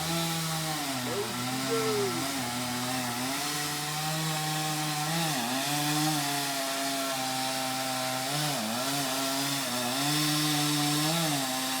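Gas chainsaw cutting into a tree trunk, its engine running at high speed and dipping in pitch several times as it bogs under load in the cut, then picking back up.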